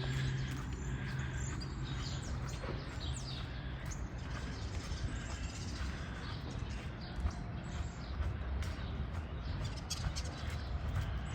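A garbage truck's diesel engine running steadily as a low hum, with small birds chirping over it.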